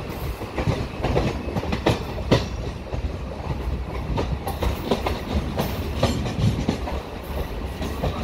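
Passenger train coach running along the track, heard from its open window: a steady low rumble with irregular sharp clacks of the wheels passing over rail joints.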